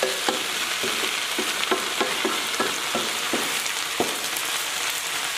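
Napa cabbage and red chili stir-frying in a pan: a steady sizzle, with a spatula scraping and clinking against the pan about two to three times a second.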